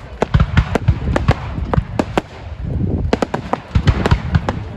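Fireworks going off: a rapid, irregular run of sharp bangs and crackles, several a second, over a low rumble.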